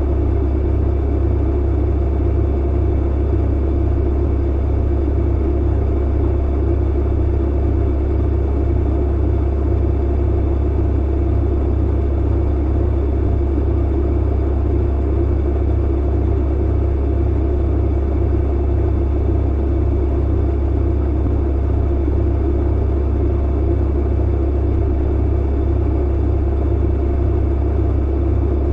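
Clothes dryer running: a steady, unbroken drone with a strong low hum underneath.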